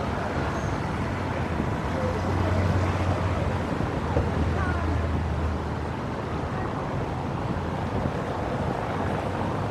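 City street ambience: a steady wash of traffic with a low engine hum swelling for a few seconds in the middle, and faint voices of passers-by.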